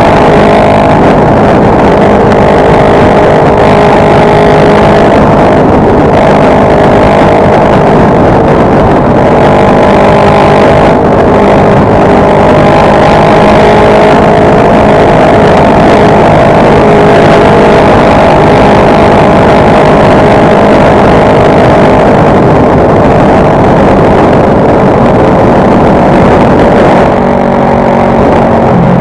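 Motorcycle engine running steadily at cruising speed under heavy wind noise. Near the end the engine note drops as the bike slows.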